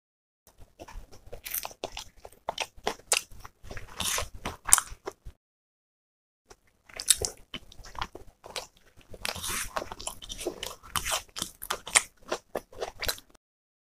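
Close-miked chewing of a mouthful of green chilli and pea pulao eaten by hand: dense crunching, smacking bites. It comes in two spells separated by about a second of silence.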